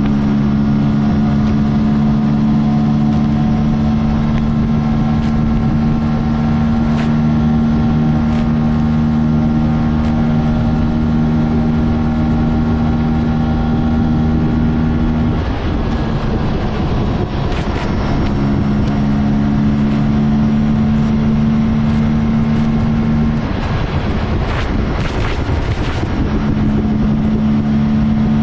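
Aprilia RS 457's parallel-twin engine, on its stock exhaust, running at highway speed with a steady, even engine note over wind and road noise. The steady note breaks up twice for a couple of seconds, about halfway through and again near the end, then settles back.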